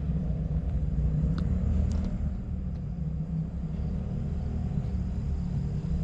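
Steady low rumble of a vehicle running, with a couple of faint light ticks about a second and a half in.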